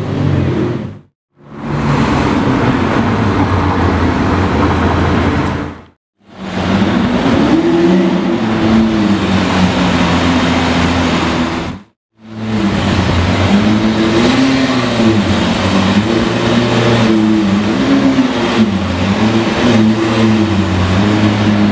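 Supercar engine running under a covered driveway, its revs rising and falling in repeated throttle blips. The sound cuts out briefly twice between joined clips.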